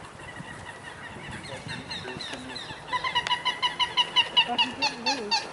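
A bird calling in a rapid series of short, clipped notes, about four or five a second, growing louder about three seconds in.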